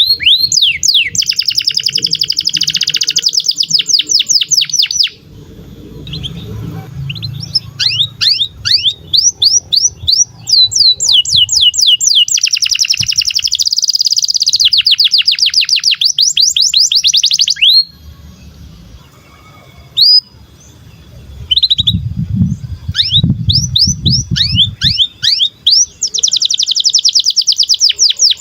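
Domestic canary singing: long phrases of fast, repeated high chirps and trills, three of them with short pauses between. A low rumble sounds twice underneath, once in the first pause and again near the end.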